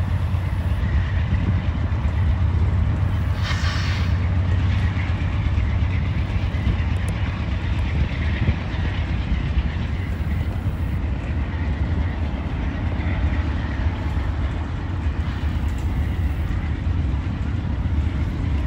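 Norfolk Southern freight train passing close by: a steady low rumble of its cars rolling over the rails, with a short burst of sharper, higher noise about three and a half seconds in.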